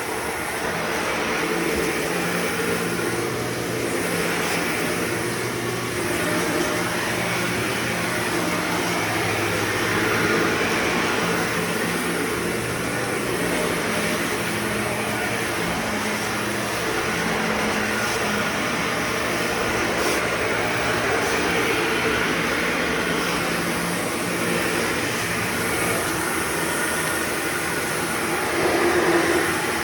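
Shark upright vacuum cleaner running steadily with a motor hum and airflow rush, its sound swelling and easing slightly as it is pushed back and forth while vacuuming.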